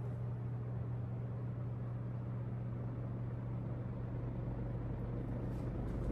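38-inch Homestead Universal ceiling fan running steadily on high speed: a slight, even motor hum with a slight hiss of moving air.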